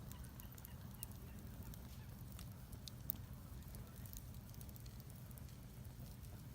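Outdoor fire pit fire crackling, with scattered sharp pops and snaps and one louder pop about three seconds in, over a low steady rumble.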